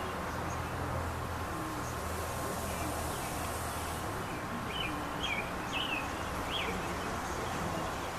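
A small bird gives four short, quick chirps about five to six and a half seconds in, over a steady background hiss and low rumble.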